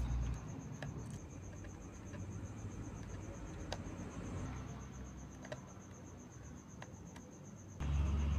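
A cricket chirping in a steady, fast, even pulse, over a low rumble and a few light clicks. Music with a heavy bass comes in near the end.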